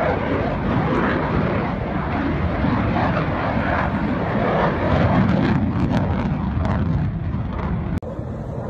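Loud, steady jet noise from an F-35A's F135 afterburning turbofan engine, dropping away abruptly about eight seconds in.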